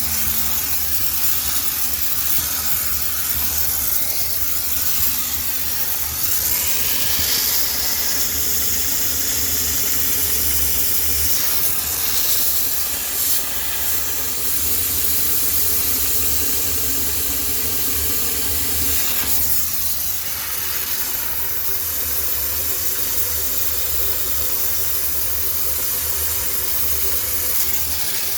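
High-pressure steam cleaner jetting steam with a steady loud hiss, which changes character about seven and twenty seconds in, over a low steady hum.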